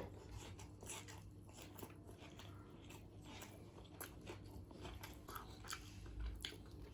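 Close-miked chewing and biting of chicken biryani: irregular crisp crunches and wet mouth clicks over a steady low hum.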